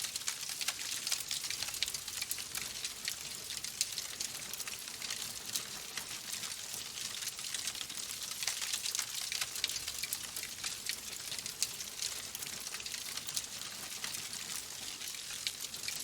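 Burning logs in a fireplace crackling: a dense, continuous run of small pops and snaps over a steady hiss.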